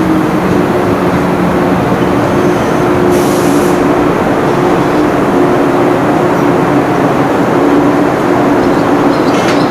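A 413 series electric train standing at the platform, its on-board equipment giving a loud, steady hum with two held tones. A short hiss of released air comes about three seconds in, and another right at the end.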